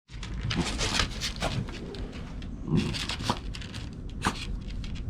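A dachshund sniffing and snuffling close by, in short irregular noisy bursts with scattered clicks.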